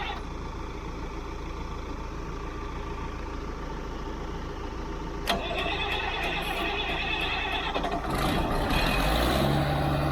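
Heavy diesel engine running throughout, with a sharp clack about five seconds in. Near the end the logging skidder's diesel engine is started and runs louder, settling to a steady note.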